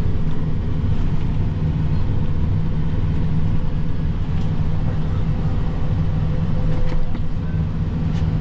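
Tractor diesel engine running steadily under load, a loud, even low drone.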